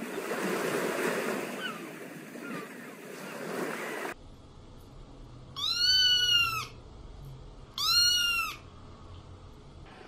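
A few seconds of rushing outdoor background noise stop abruptly, then a kitten meows twice, about two seconds apart. Each meow is high and about a second long, rising and then falling in pitch.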